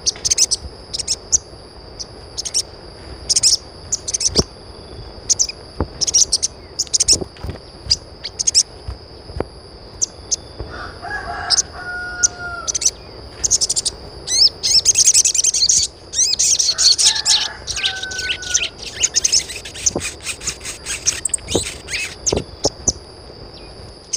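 Birds chirping in quick short notes over a steady high tone, with two longer calls in the middle.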